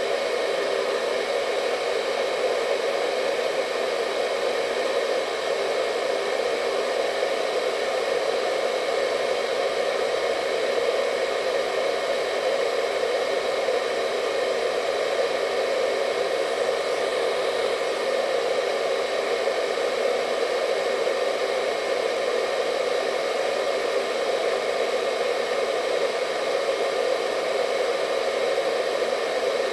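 Hair dryer running steadily: an even, unchanging rush of air with a faint motor whine on top.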